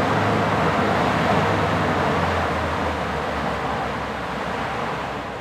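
Boat under way: a steady low engine hum beneath loud rushing wind and water noise, easing off slightly toward the end.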